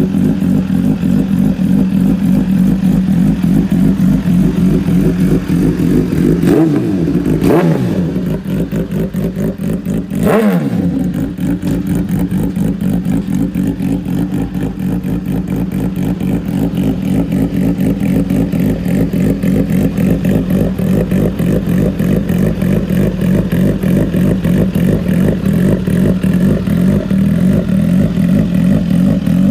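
2023 Suzuki GSX-R1000R's inline-four engine idling steadily, with a couple of quick throttle blips about a quarter to a third of the way in where the revs rise and drop back.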